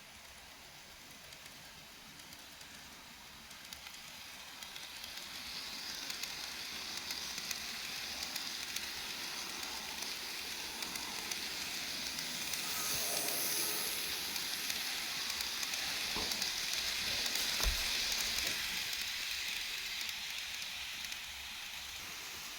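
KATO N-gauge E233 series model train running along the track, a steady hissing run noise that swells as it comes closer, is loudest past the middle, and fades near the end, with a couple of sharp clicks about two-thirds of the way through.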